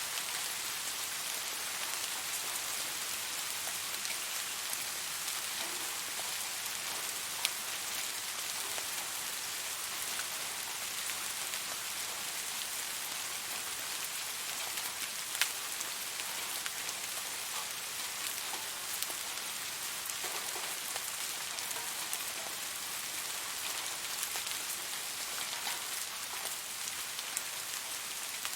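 Steady rain falling on a surface, an even hiss with scattered drop ticks, a couple of sharper drop hits standing out.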